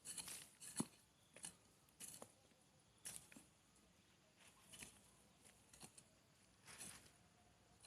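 Faint, scattered rustles and light scrapes, roughly one a second, of soil and materials being handled while a vegetable bed is prepared by hand.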